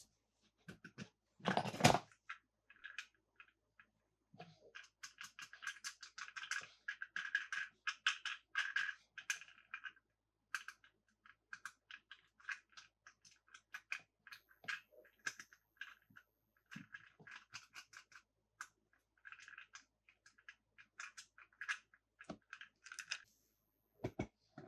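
Close-up handling of small plastic and die-cast toy cars and their packaging: a run of small, irregular clicks and scratches, busiest from about four to ten seconds in, with one louder scrape about two seconds in.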